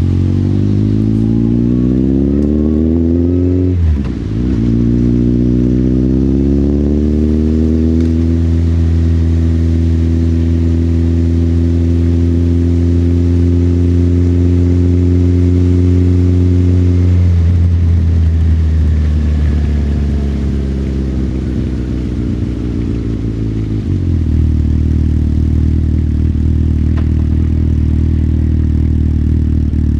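Motorcycle engine heard from the rider's seat: it accelerates with a rising pitch, drops briefly at a gear change about four seconds in, climbs again and then holds a steady cruise. Past the middle it slows off the throttle, the pitch falling, and near the end settles to a low steady idle.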